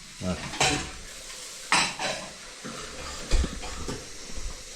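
Kitchen sounds: pots and utensils knocking, with a few short hisses and a dull thump about three seconds in.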